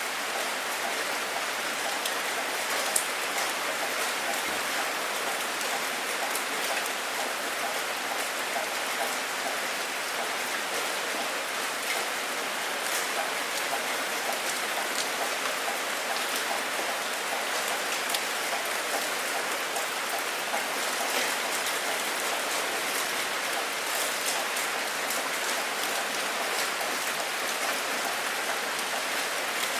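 Steady rain falling, an even hiss with scattered drop impacts and one slightly louder drip about three seconds in.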